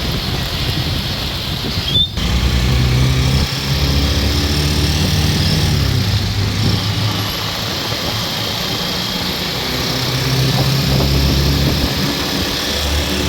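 Heavy rain falling, with a motor vehicle engine running under it, its pitch rising and falling. A brief break about two seconds in.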